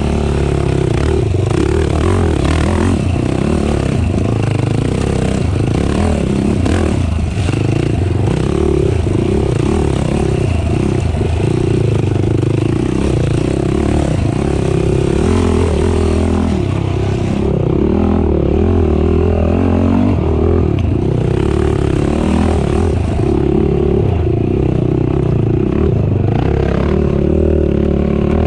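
Race ATV engine running hard, its pitch rising and falling as it revs up and down, with clatter and scraping over rough ground.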